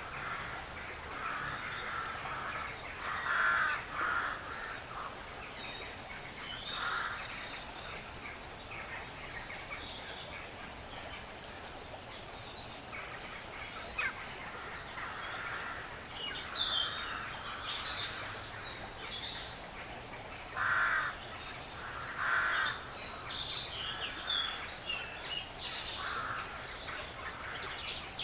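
A crow cawing now and then, harsh calls a few seconds apart, while smaller songbirds chirp in quick, high notes over a steady woodland background hiss.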